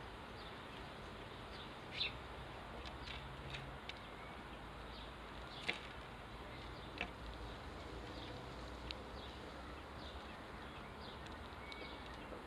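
Sparrows chirping: scattered short high chirps, the sharpest about 2, 6, 7 and 9 seconds in, over a steady low rumble.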